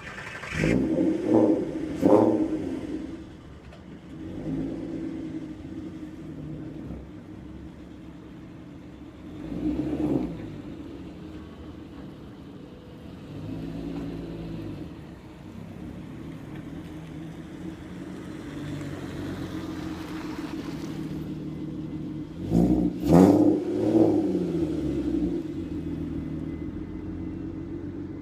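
Volkswagen Golf R32 Mk4's 3.2-litre VR6 engine idling through its factory exhaust, blipped sharply twice near the start, once more lightly about a third of the way through, and twice again hard near the end, each rev rising and falling quickly back to idle.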